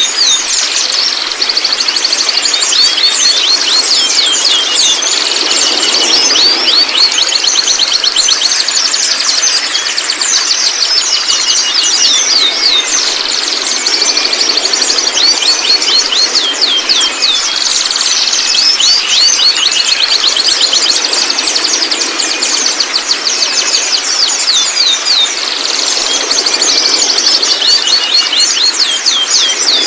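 Young white-rumped shamas calling: dense, rapid runs of high, quickly falling chirps that come and go in waves, over a steady high hum.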